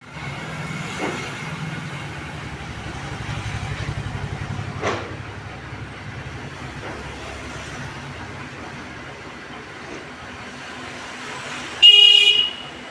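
Steady road-traffic noise with a low engine rumble, ending in a short, loud vehicle horn blast about a second before the end.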